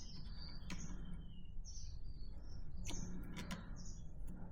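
Small birds chirping in short, high notes, with a few sharp clicks and taps of handling the light's parts.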